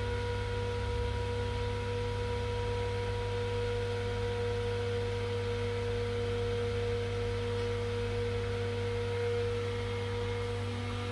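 Steady electrical hum with a whine at two pitches from bench equipment fans and blowers. The main whine cuts out shortly before the end and a different steady tone comes in.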